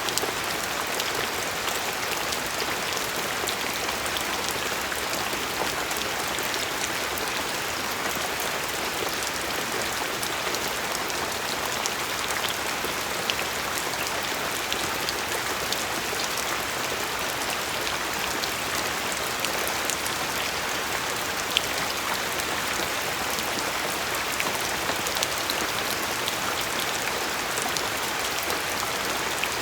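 Steady rain falling, an even hiss with many small drops pattering.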